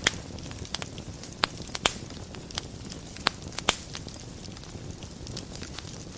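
Wood fire burning in a fireplace, with a steady low rumble and irregular sharp crackles and pops, most of them in the first half.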